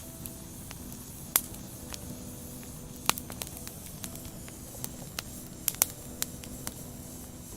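Wood fire burning: a steady hiss broken by sharp pops and crackles, the loudest about one and a half seconds in, three seconds in, and a quick cluster near six seconds.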